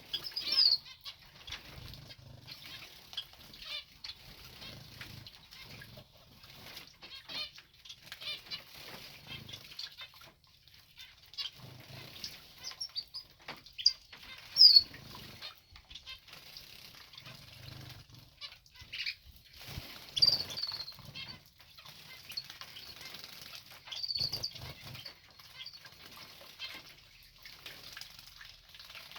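Small cage birds bathing in an aviary: repeated bursts of wing fluttering and splashing in the bath water, with short high chirps throughout.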